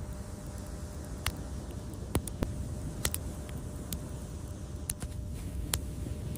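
Fireplace fire crackling: sharp, irregular pops over a steady low rumble of burning.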